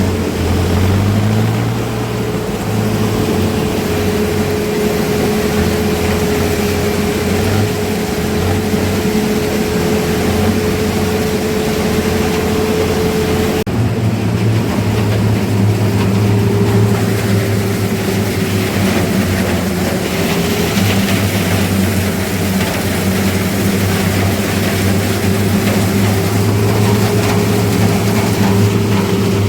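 Diesel engines of a sugarcane harvester and tractor running steadily at constant speed, with an abrupt shift in the engine note about 14 seconds in.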